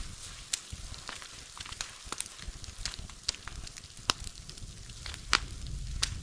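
Bonfire crackling, with irregular sharp pops and snaps from the burning wood.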